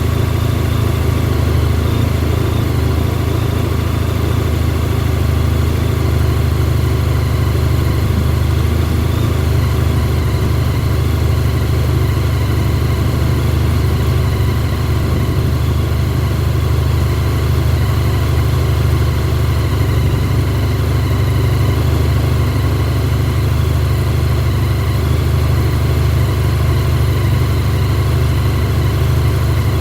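Honda VFR1200F DCT's V4 engine idling steadily while it warms up after a cold start in sub-zero temperatures.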